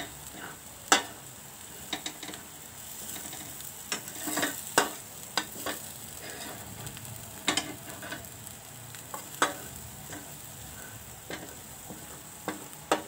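Ground yellow spice paste frying in its oil in a thick stainless steel pan, sizzling steadily. A metal spatula stirs it, scraping and knocking against the pan every second or two.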